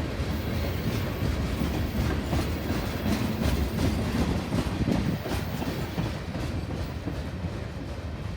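Railroad train passing, its cars' wheels clattering over the rails, easing off a little in the second half.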